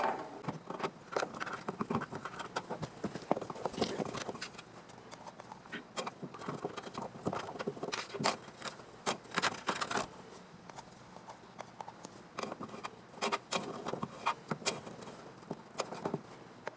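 Irregular light taps and clicks, coming in small clusters with short pauses between them.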